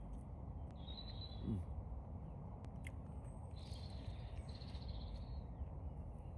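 Steady low wind rumble on the microphone, with birds calling twice: briefly about a second in, and again for a couple of seconds past the middle.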